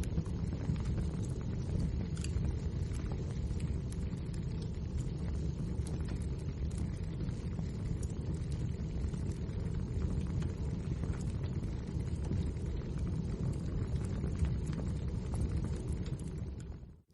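Wood fire burning, a steady low rumble of flames with frequent small crackles and pops of burning logs. The sound fades out abruptly right at the end.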